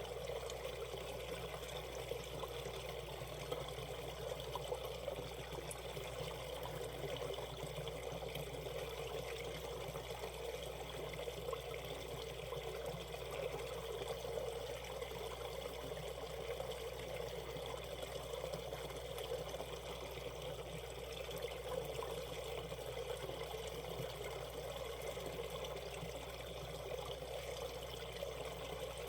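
Valley stream water running steadily through a shallow riffle, an even trickling and pouring rush.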